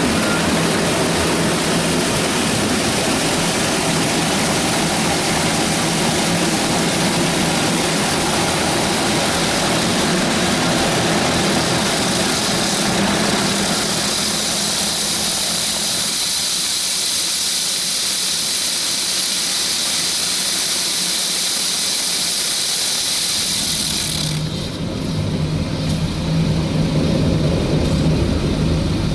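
High-pressure water from a touch-free car wash spraying against the car, heard from inside the cabin as a loud, steady hiss. It cuts off suddenly about 24 seconds in, leaving a low machine hum from the wash equipment.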